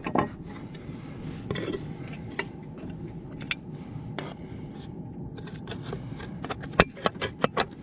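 Hammer work on fibre-cement artificial slates: scattered clicks and light scrapes, then a quick run of about eight sharp taps near the end.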